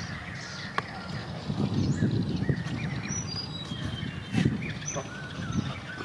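Wild birds chirping and whistling, with a run of short whistled notes stepping down in pitch about three seconds in, over low rustling.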